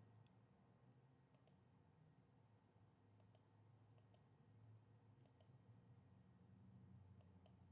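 Faint computer mouse clicks, some in quick pairs, over near silence with a low hum.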